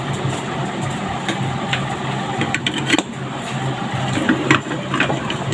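Scattered light clicks and knocks of ceiling fan parts being handled and fitted together, over a steady low hum.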